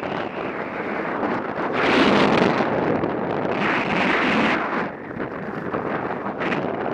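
Wind rushing over the microphone while skiing downhill, mixed with skis hissing over firm, packed snow. Two louder, brighter swells come about two and four seconds in.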